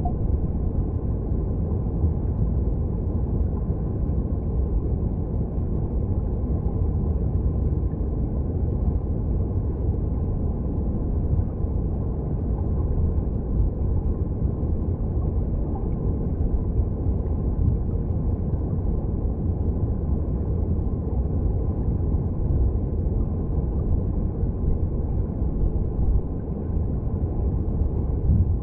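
Mountain stream recorded underwater: a steady, low, muffled rumble of flowing water, with no distinct splashes or bubbles standing out.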